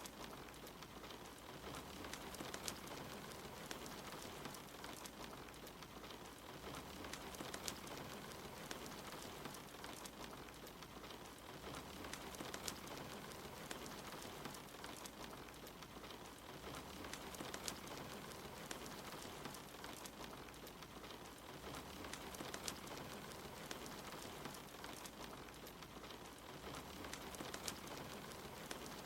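Steady soft rain mixed with a wood fire crackling, with scattered sharp pops and ticks over an even hiss.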